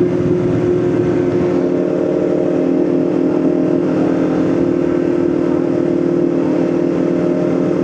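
Motorcycle engine running steadily at a constant cruise, with road and wind noise underneath.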